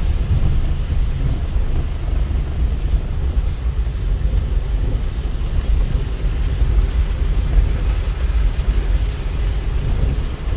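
Steady rain hiss over a constant deep rumble.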